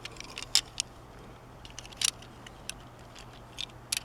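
Handling of small die-cast toy cars and their plastic packaging: a handful of sharp, light clicks and taps, scattered irregularly, over a faint background hum.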